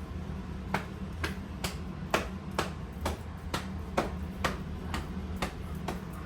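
A steady rhythm of sharp clicks, about two a second, starting under a second in, over a constant low hum.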